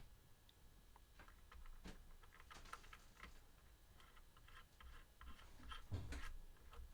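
Faint, scattered light clicks and taps of small metal guitar hardware (washers and nuts) being handled and fitted onto the control pots, with one dull thump near the end.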